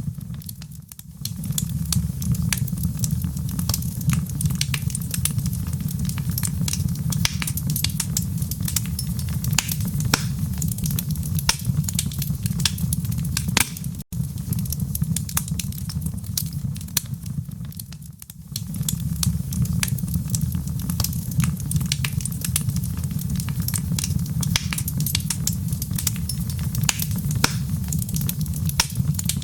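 Wood fire burning in a fireplace: a steady low roar of flames with dense, irregular crackles and pops from the burning logs. The sound dips briefly twice and cuts out for an instant near the middle.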